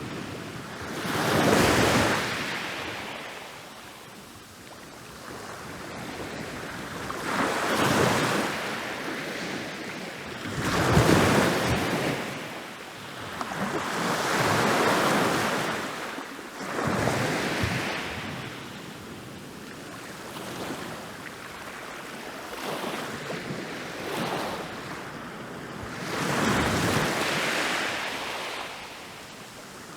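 Ocean waves rolling in and breaking on a beach. Each wave swells into a crashing wash and then fades back to a softer hiss, one after another every few seconds.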